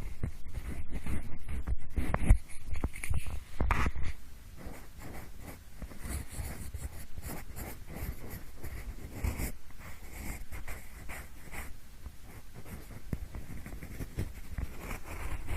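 Pencil scratching and rubbing close to the microphone in many quick, short strokes, in the manner of ear-cleaning ASMR. It is louder for about the first four seconds, then goes on more softly.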